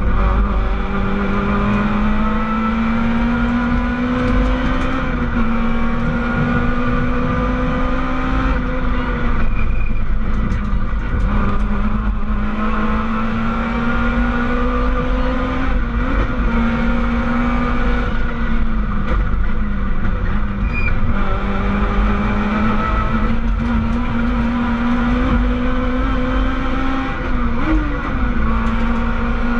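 Rally car's engine at high revs, heard from inside the cabin, its pitch climbing slowly and dropping back briefly several times as the driver lifts or changes gear, over heavy road and tyre rumble.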